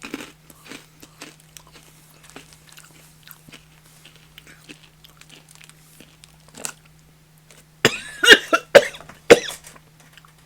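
Faint crunching and chewing of a freeze-dried Skittles Pop'd candy, then, about two and a half seconds from the end, a run of several loud coughs, as if the dry candy caught in the throat.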